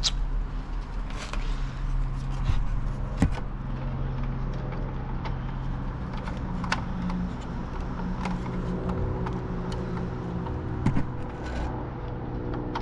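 Scattered sharp plastic clicks and taps as a wiring connector in a car's front bumper is pried at and worked loose, over a steady low hum.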